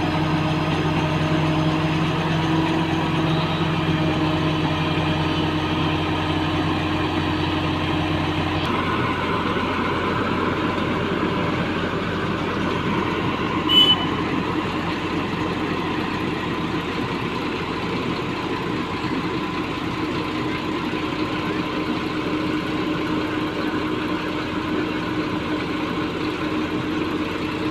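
Heavy construction machine's engine running steadily. Its note changes about a third of the way in, and there is one brief high chirp about halfway through.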